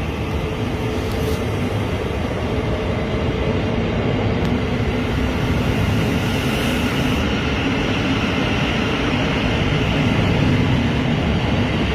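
Electric passenger train running along the line, a steady rumble with a faint steady hum in it, growing gradually louder.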